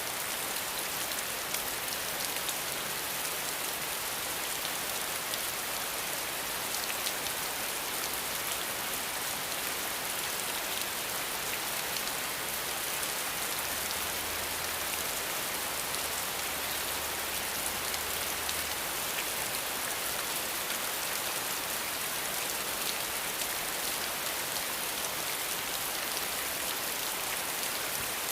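Steady rain falling: an even hiss with scattered faint taps of single drops.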